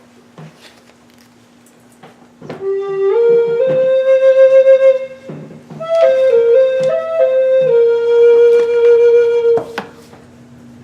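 Solo flute playing a slow melody: two phrases starting about two and a half seconds in, stepping up in pitch and ending on a long held note. A faint steady tone sits underneath throughout.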